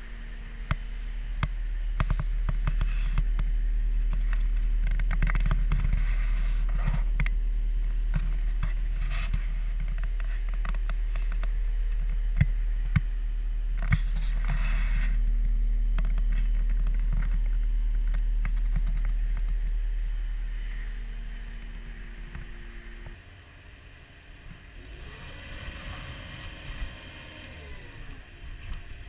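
Caterpillar 236D skid steer loader running, a steady deep diesel drone with many sharp metallic clanks and knocks from the machine working. Near the end the deep drone cuts off and the sound falls to a quieter whine that rises and falls in pitch.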